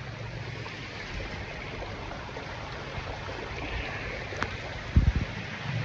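Floodwater rushing through a street, a steady noisy wash with a low hum underneath. A few loud low thumps come about five seconds in.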